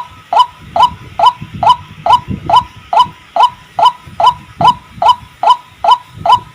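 White-breasted waterhen (ruak-ruak) giving its loud, monotonous repeated call: short notes that dip slightly in pitch, about two and a half a second, as used on a bird-trapping lure recording.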